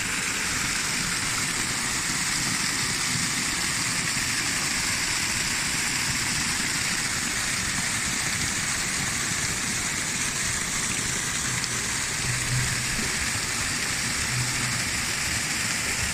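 Waterfall heard from right beneath and behind the falling water: a steady, dense hiss of pouring and splashing water.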